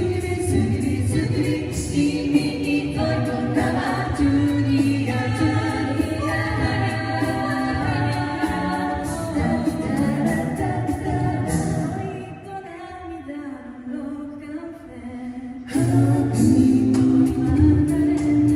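A pop song performed with several singing voices over a steady beat. About twelve seconds in the sound thins out to a quieter passage, then the full performance comes back suddenly near the end.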